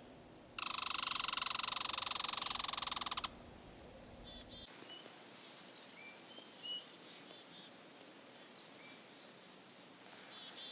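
A squirrel chattering: one loud, harsh, rapid rattling call about two and a half seconds long that cuts off abruptly. Small birds chirp faintly afterwards.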